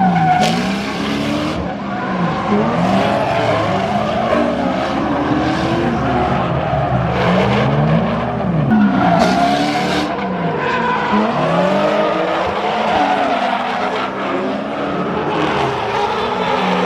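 Drift car engines revving hard, pitch swinging up and down again and again as the throttle is worked through slides, with tyres squealing and hissing. The loudest burst of tyre noise comes about nine seconds in.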